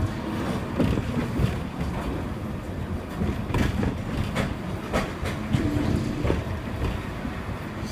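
Hong Kong double-decker electric tram running along its track: a steady low rumble with a handful of sharp knocks from the wheels through the middle stretch.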